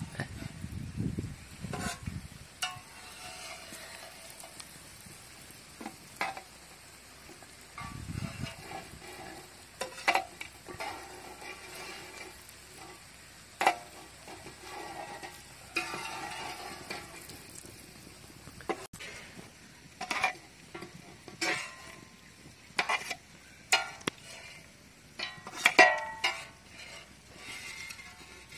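Egg lollipops sizzling in oil on a large flat iron griddle, with a metal spatula scraping and clicking against the griddle as they are lifted off and set onto a steel plate.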